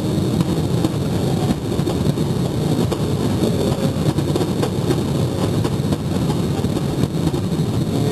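A rapid barrage of aerial firework shells bursting overhead, their booms running together into a steady low rumble dotted with many sharp cracks.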